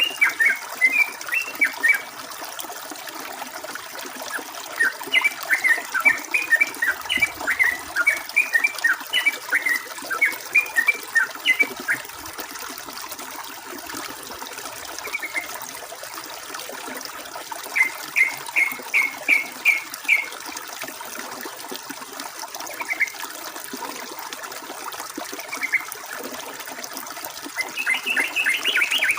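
Yellow-vented bulbul singing in bursts of quick, bubbly chirping phrases: a long run in the middle, a short burst later, and more near the end. Under it runs a steady sound of flowing water.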